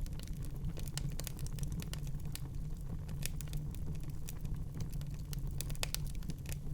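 Wood fire crackling: irregular sharp snaps and pops over a steady low rumble of the burning.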